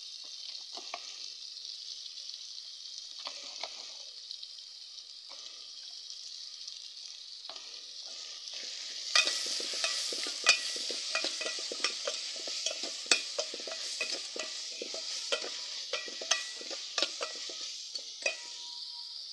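Raw mango pieces sizzling in hot oil in a metal pot, with a metal ladle scraping and knocking against the pot as they are stirred. The stirring grows louder and busier, with many quick clicks, from about nine seconds in.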